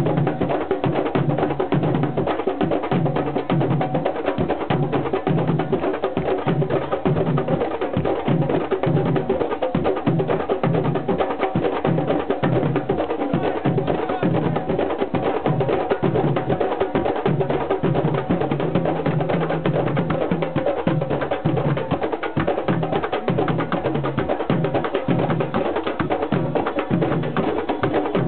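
Drums and percussion playing a steady rhythm, with a dense clatter of sharp hits.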